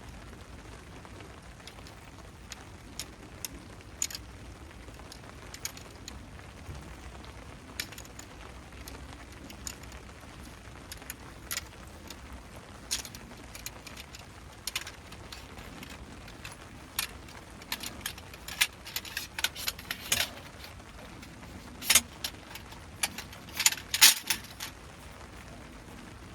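Steady rain, with many short sharp clicks and clinks of camping gear being handled during a tent takedown, coming thicker and louder in the last third.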